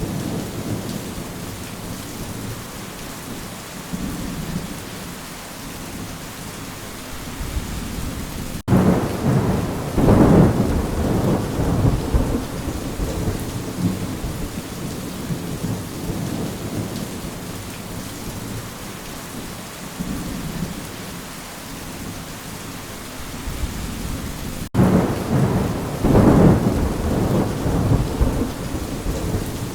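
Steady rain with two rolls of thunder: one begins abruptly about nine seconds in, the other about twenty-five seconds in, and each rumbles on for several seconds before fading back into the rain.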